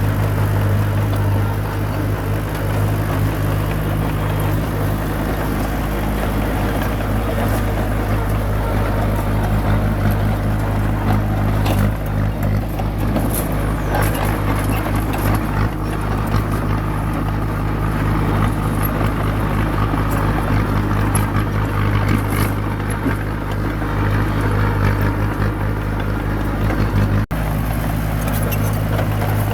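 Small bulldozer's diesel engine running steadily under work, a continuous low drone with scattered sharp clicks over it and a brief break near the end.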